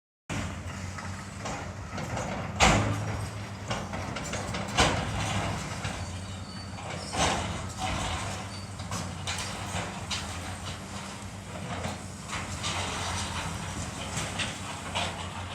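Heavy demolition machinery tearing down a building: a steady engine hum under scraping and crashing debris, with several sharp knocks, the loudest about two and a half seconds in.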